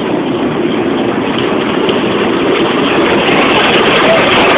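Small tourist toy train running, a steady rumbling noise that grows a little louder.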